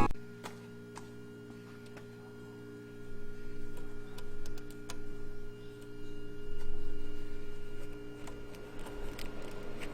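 A steady mechanical hum made of several constant tones. From about three seconds in a low rumble joins it and the level rises and falls unevenly, with a few faint clicks.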